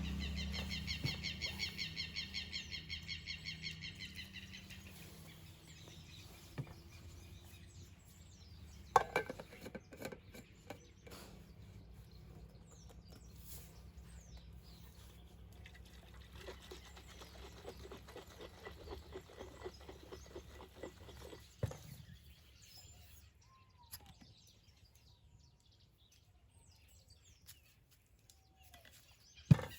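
Birds calling: a fast trill of repeated high notes over the first few seconds that fades away, then scattered faint chirps. Sharp knocks come about nine seconds in and again just before the end.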